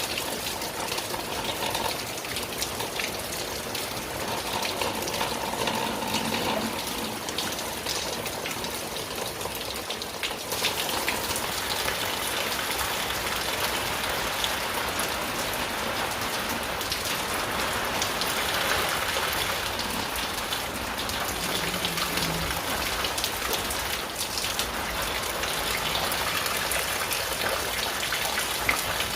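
Steady rain pattering on a tin sheet roof, a dense mass of drop ticks that grows slightly louder about ten seconds in.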